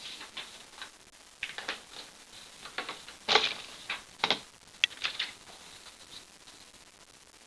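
A sheet of printer paper being folded and creased by hand: a string of short, irregular crinkles and rustles, loudest about three seconds in and again just after four.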